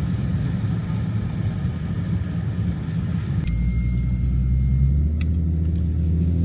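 Car engine and road noise while driving, a steady low drone that changes sharply about halfway through to a smoother, deeper hum with a faint high whine and a single click.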